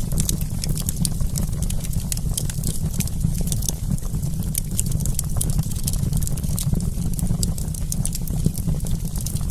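Wood campfire crackling: frequent small, sharp pops scattered irregularly over a steady low rumble.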